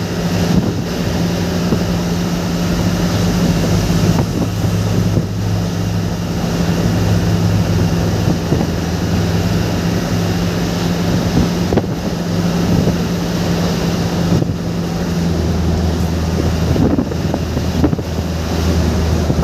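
Vehicle driving in the rain: a steady low engine hum under a constant wash of rain and tyre noise. The engine note drops lower about fifteen seconds in.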